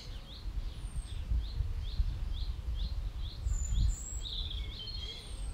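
Small songbirds calling in a garden: one repeats a short chirp about twice a second, with a few thin higher calls and a brief twittering about four seconds in, over an uneven low rumble.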